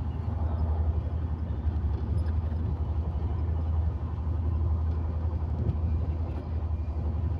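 Passenger train coach running at speed, heard from inside: a steady low rumble of wheels on the track.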